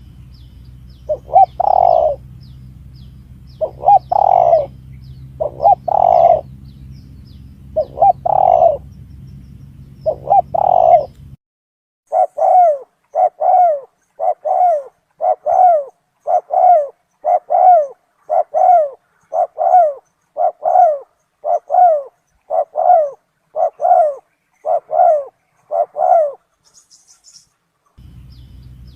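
Spotted dove cooing on a bird-lure recording. First come about five loud coo phrases over a steady low hum. After a break near eleven seconds, a cleaner recording without the hum has a long even run of short coos, a little over one a second.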